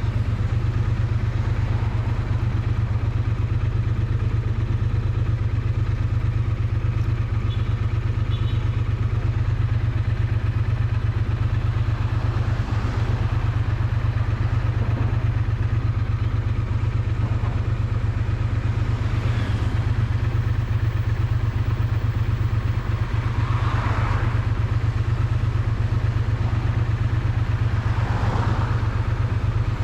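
Triumph Bonneville T100's parallel-twin engine and exhaust running at a steady, unchanging pitch, recorded close to the exhaust. Two brief swells of hissing noise come through near the end.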